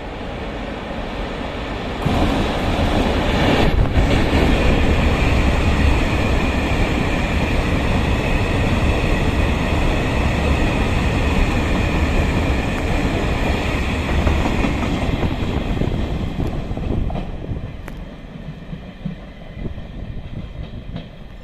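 A train passing on the rails: a steady rumble of wheels that jumps louder about two seconds in, with a high steady tone running over it, then dies away near the end.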